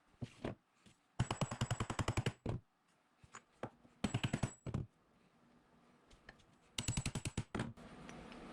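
Three short bursts of rapid metallic clicking, about ten clicks a second, from a hand tool being worked, with a few single clicks in between.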